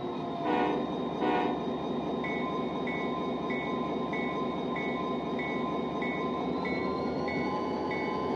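Railway sound: a train running with a steady rumble, two short horn toots in the first second and a half, then a short ringing ding that repeats a little under twice a second.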